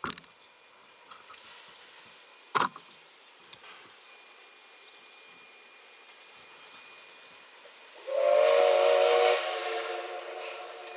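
Steam whistle of the C11 227 steam locomotive sounding about eight seconds in: a loud blast for a second and a half, then held on more quietly. Two sharp knocks come earlier.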